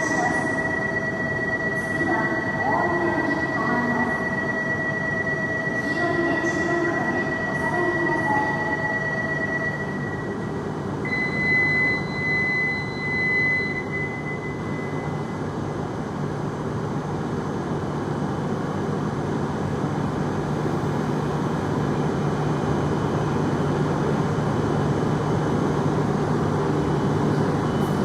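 E7 series Shinkansen train moving through the station with a steady high-pitched squeal that stops about ten seconds in, then a second brief squeal, and a low hum from the running gear that grows stronger in the second half.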